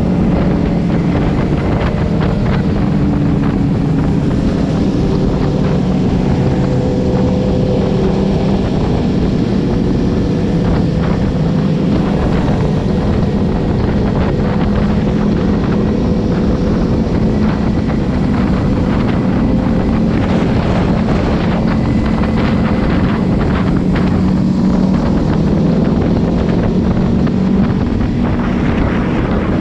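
Kawasaki Z300's parallel-twin engine running at steady cruising revs, mixed with heavy wind noise on the onboard microphone.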